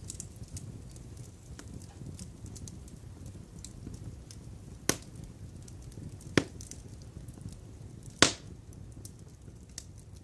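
Wood fire crackling in a fireplace: a steady low rumble with scattered small ticks and three sharp pops, the loudest near the end.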